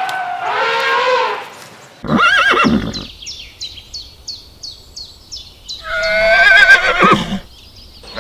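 Horse whinnying: a short neigh about two seconds in, then a longer, louder whinny with a wavering pitch around six seconds in. Before it, an elephant call fades out in the first second, and a run of quick, high, falling chirps, about four a second, comes between the two neighs.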